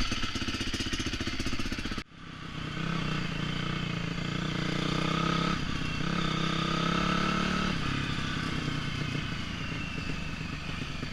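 A four-stroke dirt bike engine running. It cuts out abruptly for a moment about two seconds in, then picks up again and holds steady revs, easing slightly near the end.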